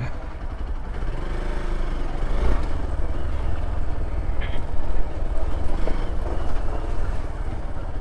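Hero XPulse 200 4V motorcycle's single-cylinder engine running as the bike rides along, under a steady, rough low rumble of wind buffeting the microphone.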